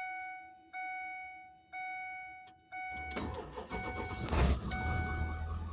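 A vehicle's dashboard warning chime dinging about once a second. About three seconds in, the engine cranks and starts, and its low running sound continues under the chime.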